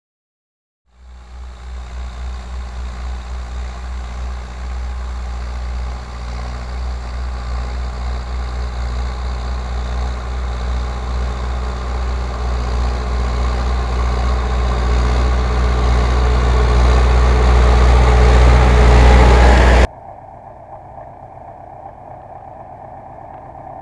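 MTZ tractor's four-cylinder diesel engine running under load, pulling a plough, with a pulsing low rumble that grows steadily louder. About 20 seconds in it cuts off abruptly to a quieter tractor engine running.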